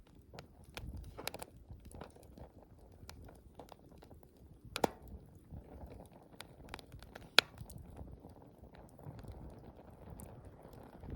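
Wood campfire crackling: scattered small snaps over a low, steady rush of burning, with two sharper pops about five and seven and a half seconds in.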